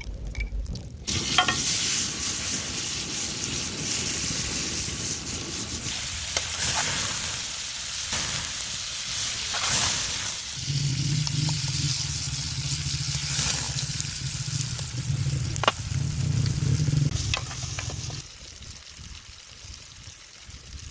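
Egg and tomato frying in a pan: a steady sizzle with occasional sharp clicks, as of a utensil stirring against the pan. A low steady hum joins a little past halfway and stops a few seconds before the end, when the sizzle also dies down.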